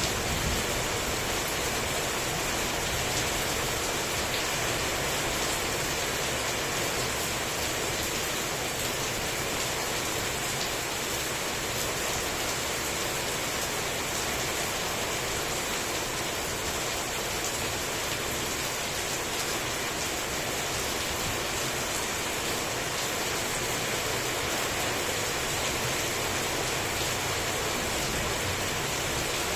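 Heavy tropical rain falling steadily, a dense, even hiss of drops on surfaces with no thunder heard.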